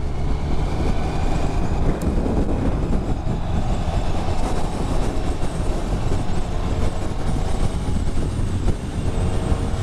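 Motorcycle riding along, with its engine and steady wind and road rumble on the rider's camera microphone.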